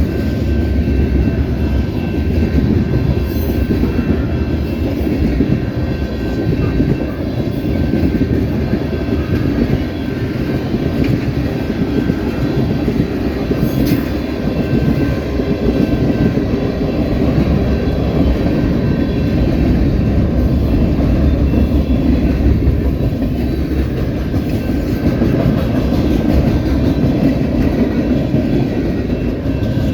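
Freight train rolling past, a steady loud rumble of wheels on rail with some clickety-clack and faint high wheel squeal.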